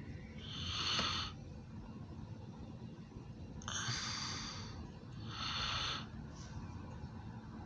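A person breathing close to the microphone: three short, noisy breaths with a faint low rumble underneath.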